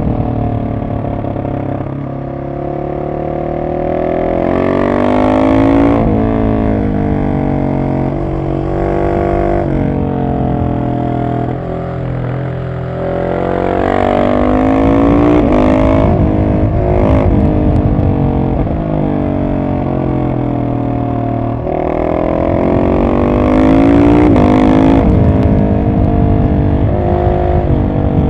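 Husqvarna 701 SM single-cylinder engine through a decatted Arrow exhaust, repeatedly pulling up in revs and dropping back as it shifts and rolls off the throttle. The pitch climbs several times, then falls.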